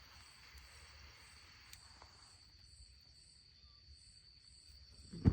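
Insects, crickets, calling steadily: a thin high trill with a higher chirp pulsing about twice a second. A sudden loud knock comes right at the end.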